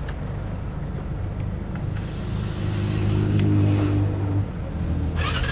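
Yamaha MT-07 parallel-twin engine with a full aftermarket exhaust system running at steady low revs. It grows louder from about two and a half seconds in and eases off a little after four seconds.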